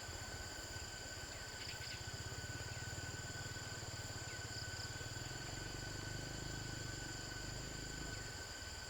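A steady chorus of insects, crickets or cicadas, holding several high tones together without a break. Under it runs a low, finely pulsing rumble that fades out near the end.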